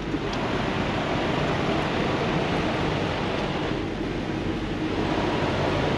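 Semi truck's diesel engine running steadily at low speed, under an even rushing noise, as the truck creeps backward into a dock door.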